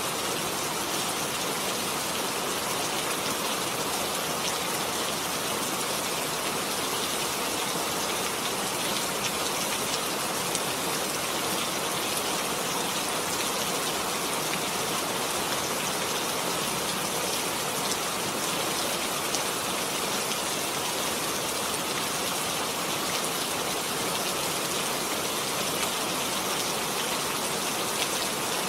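Heavy rain falling steadily, a dense even hiss of countless drops with faint scattered ticks of individual drops.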